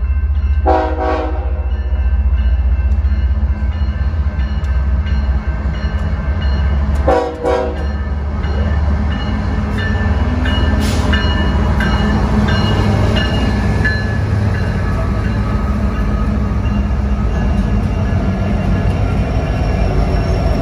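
BNSF freight train's diesel locomotives approaching and passing with a steady low engine rumble. The horn sounds a short blast about a second in and another brief one about seven seconds in, and the noise of wheels on rail grows from about ten seconds in as the locomotives go by.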